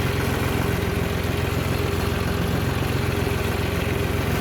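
A motor vehicle's engine running steadily at an even pace, a constant low hum with no change in speed.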